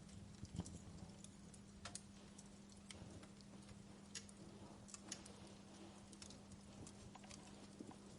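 Wood fire crackling in a fireplace: irregular sharp pops and snaps over a faint low rumble.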